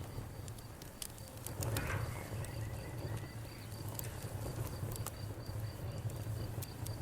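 Wood bonfire crackling with sharp irregular pops over a low steady rumble, while crickets chirp in a steady, evenly spaced rhythm.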